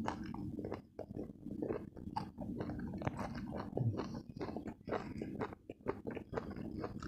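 Close-miked chewing and biting of stir-fried papaya leaves and stem, a dense run of short wet smacks and clicks from the mouth.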